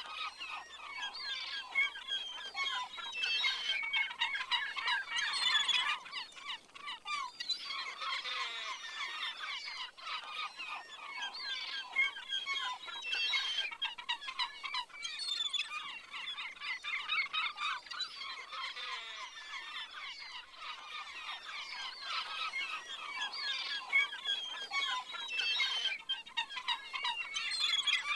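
A dense chorus of many overlapping animal calls, short chirps and squawks layered without a break.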